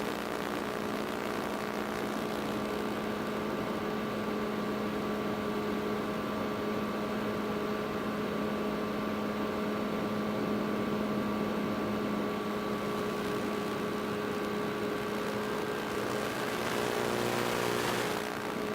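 Electric motors and propellers of an FPV model aircraft whirring at a steady pitch. Their pitch shifts near the end.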